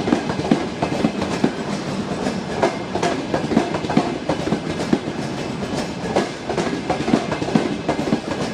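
A train rolling along the track, its wheels clattering with a steady run of irregular knocks over rail joints and points.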